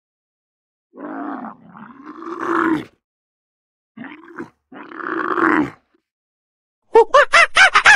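Two long, low animal calls, each about two seconds long and growing louder toward its end. About a second before the end, a loud, rapid run of waterfowl honks starts, several calls a second.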